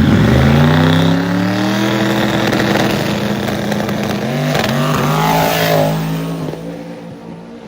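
Drag race car launching at full throttle and accelerating down the strip. The engine note climbs steadily, breaks briefly a few times about four to five seconds in, then fades as the car pulls away.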